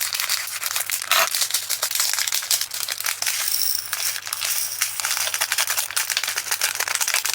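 Resin diamond-painting drills rattling as they are tipped out of a small plastic zip bag into a plastic storage container, with the bag crinkling: a dense, continuous stream of tiny clicks.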